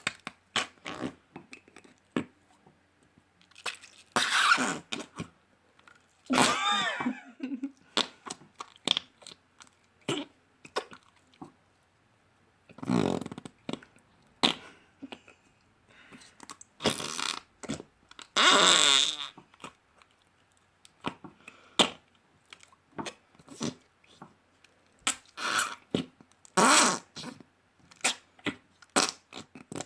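Slime squeezed and pressed by hand, letting out a series of wet, fart-like squelches and trapped-air pops. They come irregularly, some short and some drawn out over a second or so, a few with a wavering pitch.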